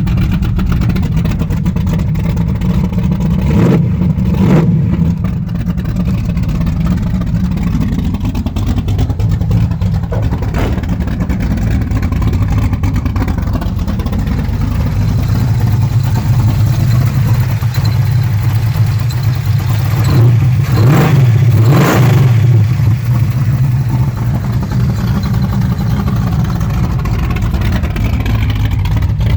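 Modified Chevrolet 350 small-block V8 idling through headers and a 2.5-inch glasspack dual exhaust, blipped twice about four seconds in, once near ten seconds, and in a quick run of revs around twenty to twenty-two seconds.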